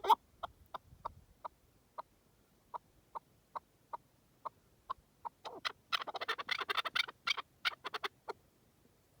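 Partridge calling: a string of short clucking notes, about two or three a second, then a fast, dense run of calls about six seconds in, tapering to a few single notes near the end.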